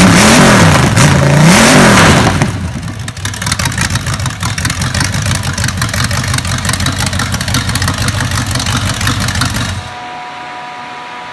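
Freshly rebuilt 350 small-block Chevy V8 on a break-in stand, revved twice and dropping back to idle, then shut off near the end.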